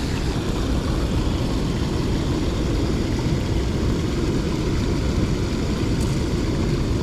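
Steady rush of fast water pouring out of a chute, an even noise heaviest in the low end.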